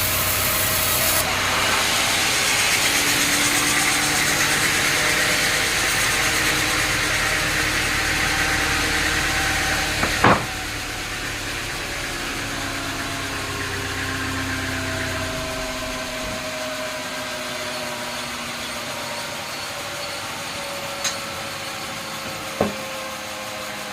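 Sawmill machinery running steadily, its pitch slowly falling as it winds down. There is a sharp knock about ten seconds in and two smaller clicks near the end.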